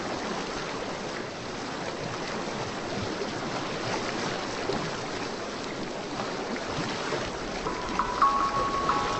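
Steady rushing of water, a relaxing ocean-style ambience. Near the end a few held, bell-like music notes come in.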